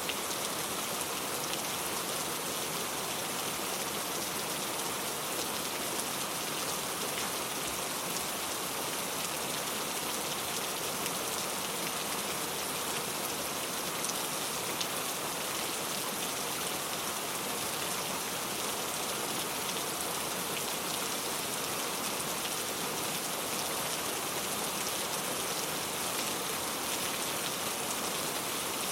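Steady rain falling, a dense even patter of many drops on a surface, with no change in intensity.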